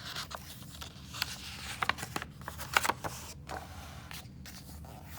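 Rustling and crackling of a book's paper pages being handled and turned, a cluster of short sharp crinkles in the middle.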